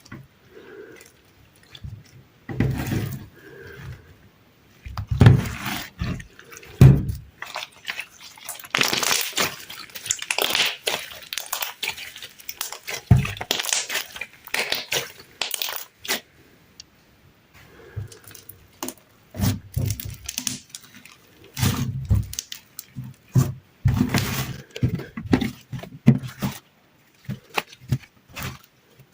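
Sticky slime being squeezed and pressed by hand, making irregular sticky clicks and pops with low squelching thuds. There is a denser stretch of crackling in the middle.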